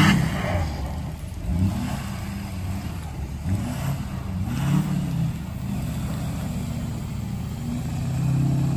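Truck engine revving, its pitch rising and falling several times.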